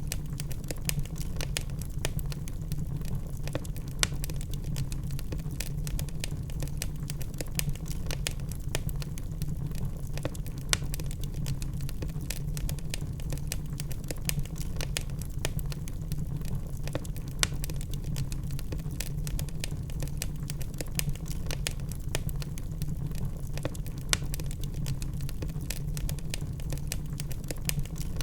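Wood fire of burning logs crackling: a constant scatter of irregular sharp pops and snaps over a steady low rumble of the flames.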